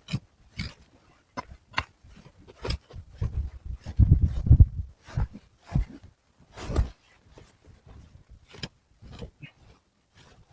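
Irregular knocks and clicks with heavier dull thumps, the heaviest cluster about four seconds in and another near seven seconds.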